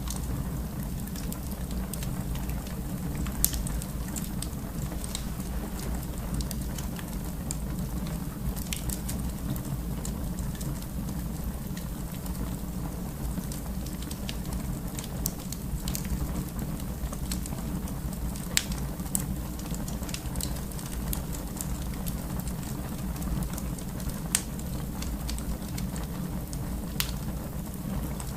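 Wood fire burning in a fireplace: a steady low rumble of flames with scattered sharp crackles and pops, the loudest a few seconds in.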